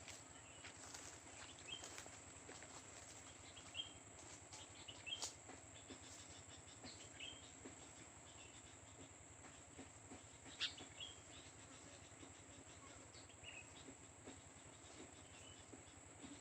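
Young sooty-headed bulbul (kutilang) giving scattered faint short chirps over a steady high-pitched hiss, with a few sharp clicks, the loudest about ten and a half seconds in.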